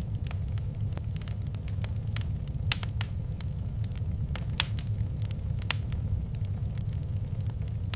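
Wood fire in a fireplace crackling, with scattered small snaps and three louder pops near the middle, over a low steady rumble.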